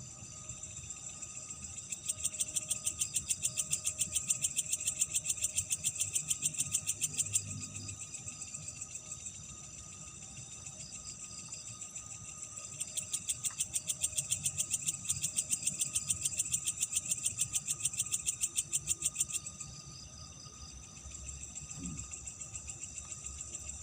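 Night insects calling: a chorus of steady high-pitched singing, with a rapid pulsing trill that rises over it twice for about five to six seconds at a time.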